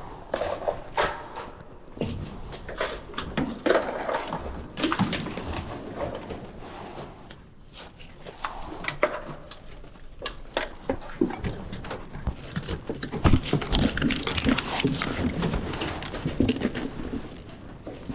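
Heavy breathing with scuffing, scraping and irregular knocks and clicks as people clamber over a flimsy structure.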